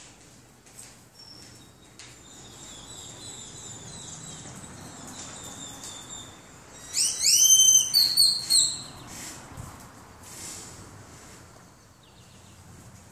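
A bird calling: soft high chirping, then about halfway through a short burst of loud, high whistled notes that rise sharply and hold.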